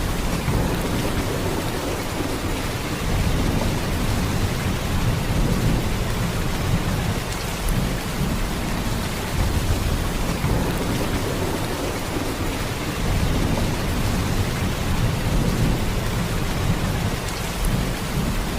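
Heavy rain pouring steadily, a dense even hiss with a deep low rumble underneath that swells and eases slightly.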